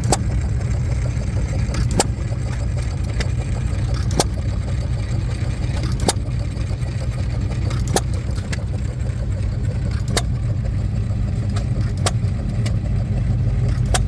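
Vintage hit-and-miss engine running: a steady low rumble with a sharp bang about every two seconds and fainter ticks in between.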